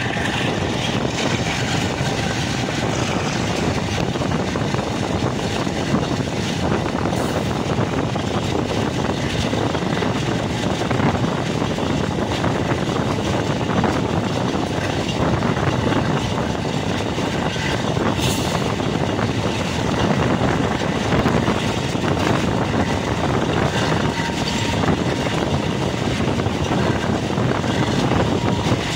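Pakistan Railways diesel-electric locomotive engine running under throttle: a steady low drone that holds an even level throughout.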